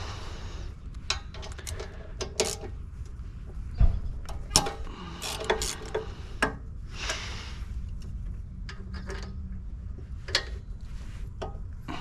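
Hand tools and metal fittings being worked while pump plumbing is disconnected: irregular clinks, clanks and knocks of metal on metal, with a few short scraping or rustling stretches.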